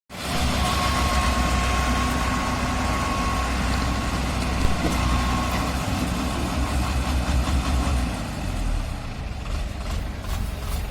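Combine harvester engine running steadily with a deep low hum, which drops away about eight seconds in while the engine keeps running.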